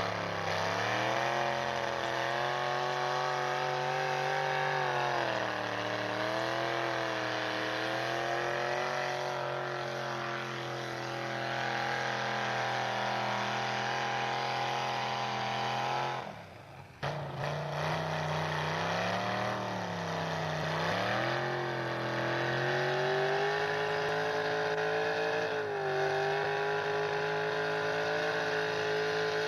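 Pulling truck's engine running hard under load, its pitch rising and sagging again and again. The sound cuts out briefly about two-thirds of the way through, then the engine comes back and settles to a steady high pitch near the end.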